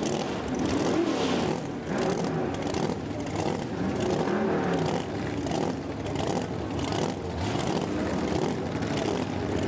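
Drag-racing car engine running loud and steady while the car sits still, its pitch wavering slightly up and down.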